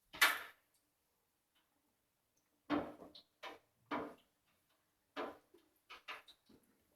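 A run of short knocks and clacks from utensils and equipment being handled at an electric deep fryer: one sharp knock at the start, then a scattered series of lighter clacks in the last four seconds.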